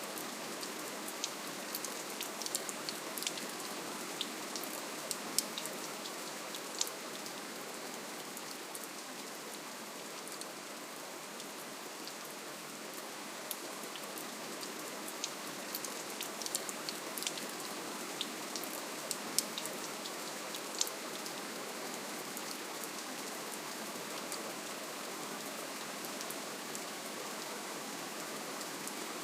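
Steady, gentle rainfall: an even hiss of rain with scattered sharp drip ticks, more of them in two stretches.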